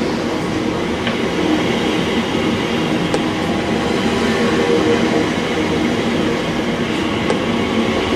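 Class 345 electric train moving along the platform: a steady rumble of wheels on rail with a faint wavering motor hum.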